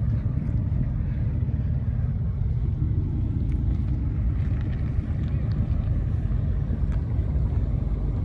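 Steady low rumble of car engines running, mixed with wind buffeting the microphone.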